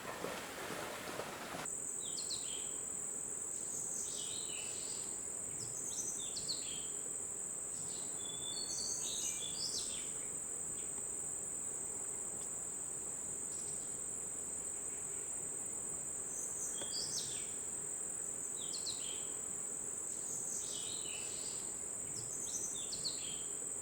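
A steady, high-pitched insect drone starts abruptly about two seconds in and holds on one unbroken tone. Short bird calls break in several times over it.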